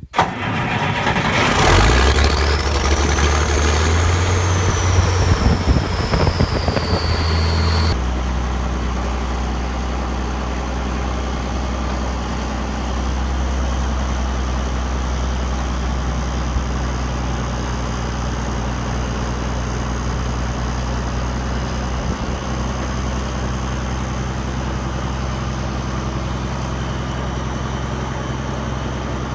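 1975 International 4366 tractor's turbocharged six-cylinder diesel starting and running. After a brief crank it catches, with a high whine that climbs and then slowly sinks over several seconds, then settles to a steady idle about eight seconds in.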